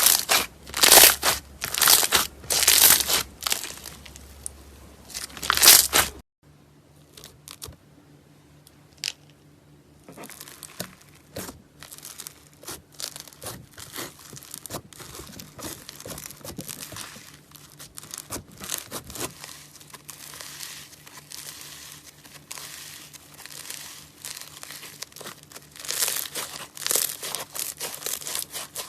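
Slime being squeezed and stretched by hand, with dense crackling and crinkling. It is loud for the first few seconds, then after an abrupt cut about six seconds in it goes on more softly, growing louder again near the end.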